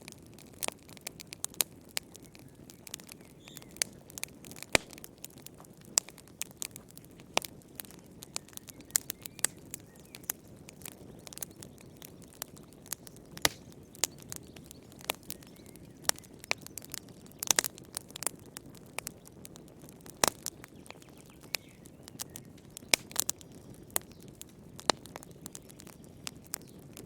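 Wood fire burning in a fireplace, crackling and popping at irregular intervals over a soft, low rustle of flame.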